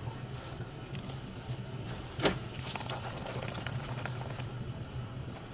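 Steady low electrical hum with scattered small clicks and rustles of plastic food packaging being handled, and one sharper knock about two seconds in.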